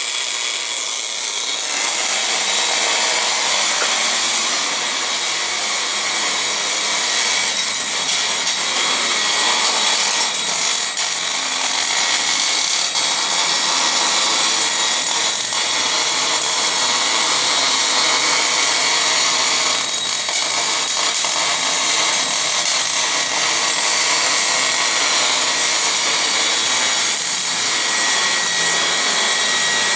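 Wire-feed welding arc burning steadily on cast iron during an orbital weld: a continuous loud hiss with fine crackle.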